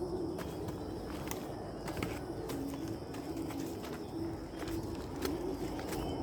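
Dove cooing, a series of short low calls, with a few sharp clicks over outdoor background noise.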